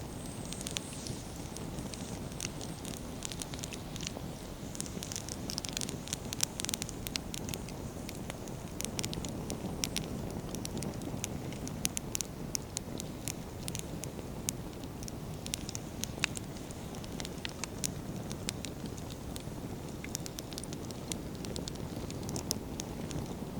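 Wood campfire burning: a steady low rush of flames under frequent sharp crackles and pops from the burning firewood, busiest in the middle stretch.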